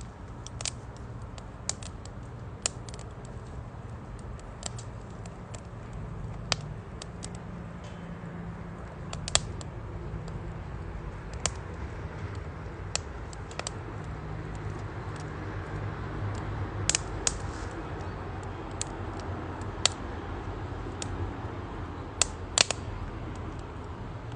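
Wood fire crackling in a folding fire stove, with irregular sharp pops over a steady low rush.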